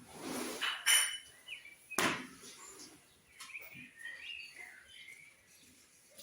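Small birds chirping in short high calls, with a couple of sharp clinks or knocks near the start.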